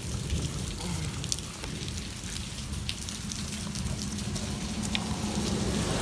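Heavy rain and golf-ball-sized hail falling: a steady hiss with scattered sharp knocks of hailstones striking the ground and nearby surfaces.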